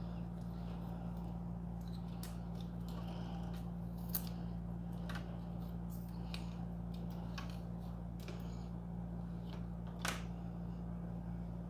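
Scattered small clicks and rustles of cables and plastic printer parts being handled, the most distinct about four and ten seconds in, over a steady low hum.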